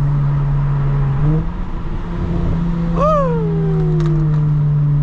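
Lexus IS350's 3.5-litre V6 through a muffler-deleted exhaust with no secondary cats, droning steadily under throttle, its pitch stepping up a little about a second in. About three seconds in, a high cry rises briefly and then falls away over about a second.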